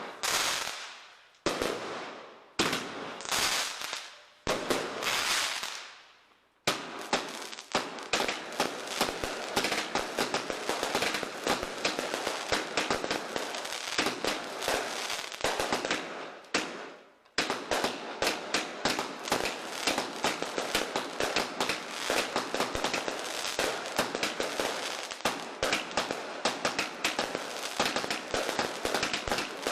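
Fireworks going off. First come single shots about once a second, each trailing a fading crackle. Then, from about seven seconds in, a dense barrage of rapid crackling pops breaks off briefly past the middle and starts again.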